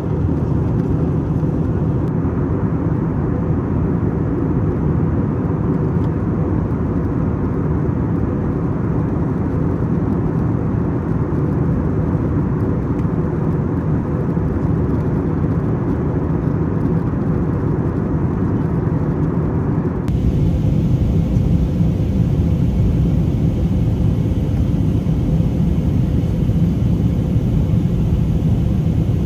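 Steady in-flight cabin noise of an Airbus A321neo: the low rush of airflow and its geared turbofan engines, with a faint steady hum. About two-thirds of the way through, the sound changes abruptly and becomes slightly louder and brighter.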